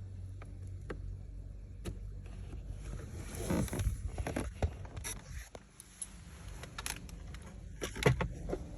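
Hand work prying off the broken shift linkage bushing: scattered sharp clicks and a stretch of scraping and rustling about three to five seconds in, with a few more clicks near the end, over a steady low hum.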